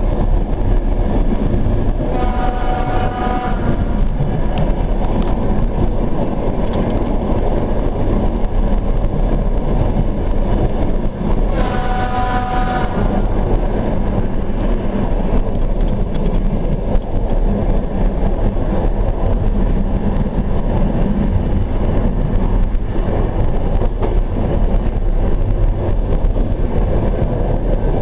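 Suburban train running along the track, its steady rumble heard from aboard, with the train's horn sounding twice, about ten seconds apart, each blast about a second and a half long.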